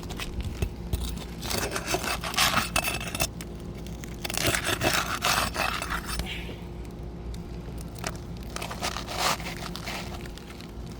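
Tool scraping and crackling under asphalt roof shingles as the sealant strip bond is broken to free a shingle, in three rough bursts.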